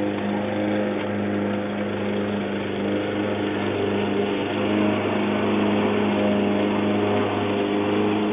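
Gas-powered walk-behind lawn mower engine running at a steady speed while cutting grass low.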